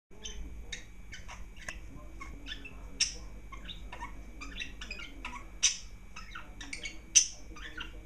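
Small garden birds calling with a continuous run of short, high chirps, several overlapping, and three louder, sharper calls about three, five and a half and seven seconds in.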